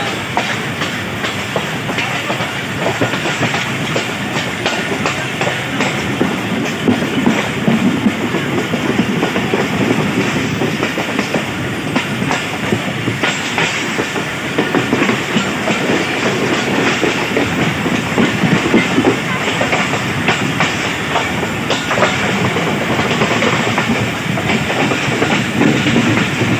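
Passenger train running along the track, heard from an open coach window: a steady rumble with the wheels clattering over the rail joints.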